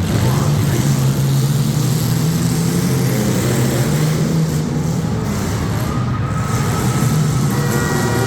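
Compact race cars' engines running, a steady engine drone. A higher, steady whine joins near the end.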